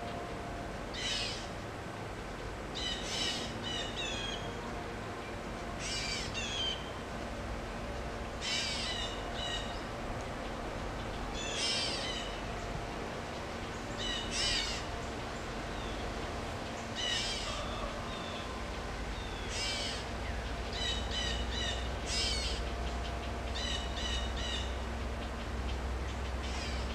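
A bird calling over and over, a short high phrase of quick descending notes about every three seconds, over a faint steady hum.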